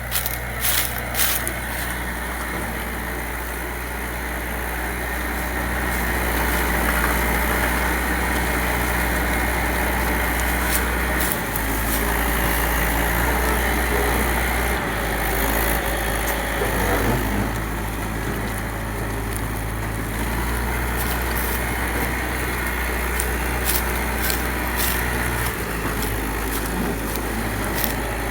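Tractor engine running steadily, with a few sharp clicks and rattles; it grows a little louder about six seconds in.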